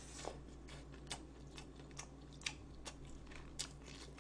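Close-miked chewing: faint, irregular little clicks and crunches of food between the teeth, a handful a bit louder than the rest.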